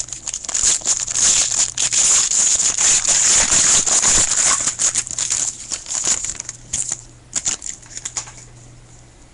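A trading card pack wrapper being torn open and crinkled, a sustained loud rustle that dies away after about six seconds into a few scattered crackles and clicks as the cards are handled.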